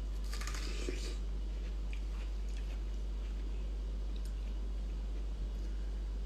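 Crisp, wet bites and chewing of watermelon flesh along the rind in the first second, then a few faint mouth clicks. A steady low hum runs underneath.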